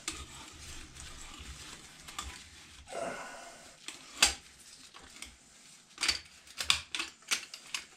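Sharp metallic clicks and scrapes from a pipe cutter working on a brass flush-valve overflow tube. There is a scrape about three seconds in and a loud click just after four seconds, then a quick run of clicks near the end as the cut finishes.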